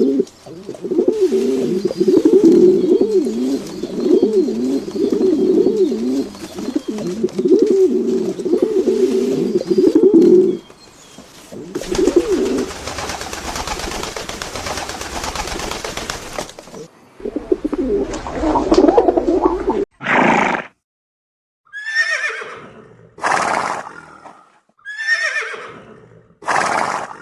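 Pigeons cooing continuously for about ten seconds, then a few seconds of hiss-like noise, then a horse neighing about five times, each whinny starting high and falling away.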